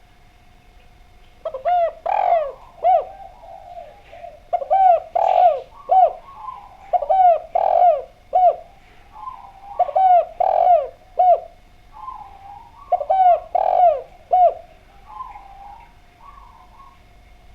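Spotted dove (derkuku) cooing in five loud phrases of several hooked coo notes each, roughly one phrase every two and a half to three seconds, with softer coos in the gaps. A faint steady hum runs underneath.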